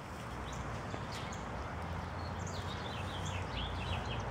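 Outdoor ambience: small birds chirping in short high calls, more of them in the second half, over a steady low rumble.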